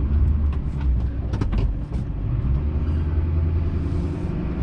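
A vehicle towing a livestock trailer, driving along with a steady low rumble of engine and road noise, with a few light clicks about one to one and a half seconds in.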